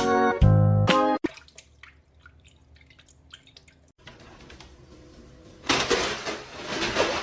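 Background music stops about a second in; then a few faint drips, and from about six seconds a loud rush of running water.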